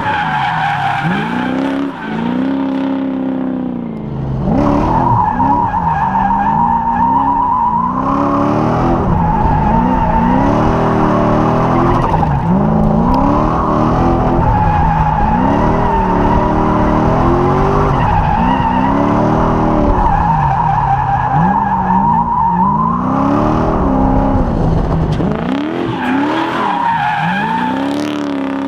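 Lexus 1UZ V8 in a Mazda B2200 drift truck revving up and down repeatedly while drifting, with tires squealing from about five seconds in until a few seconds before the end.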